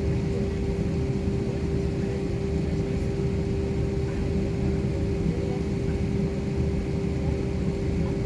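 Steady drone of an airliner heard from inside the passenger cabin: a continuous low rumble of engines and airflow with a steady hum running through it.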